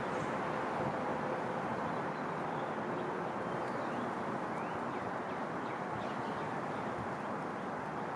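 Steady rushing outdoor background noise, with faint, scattered high chirps of sparrows in the middle seconds.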